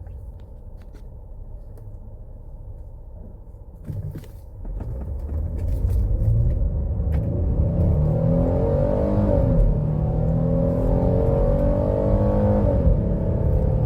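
2017 Ford Explorer's V6 engine and road noise heard inside the cabin: a steady cruise, then from about four and a half seconds in the engine is pushed hard, its note climbing, dropping at an upshift about nine seconds in, climbing again and shifting once more near the end. It pulls cleanly under load after a reprogram of the engine computer cured its random misfire in cylinders 2 and 6.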